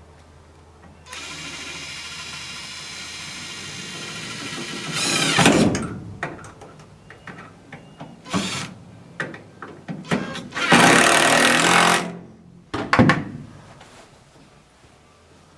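Power drill driving screws into the mount. A steady run of about four seconds ends in a louder burst, followed by short bursts and one more loud run of about a second.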